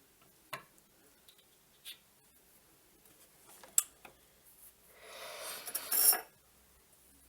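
Metal tools and parts handled at a stopped lathe: a few separate clinks and knocks, the sharpest a little before the middle, then about a second of scraping noise that grows louder and ends with a couple of clinks.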